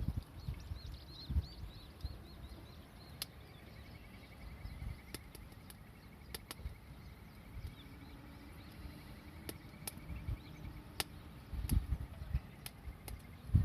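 Wood campfire crackling, with a handful of sharp pops at irregular intervals and low thuds near the start and end. A bird chirps faintly in the background, a quick run of high notes early on and a thin trill in the middle.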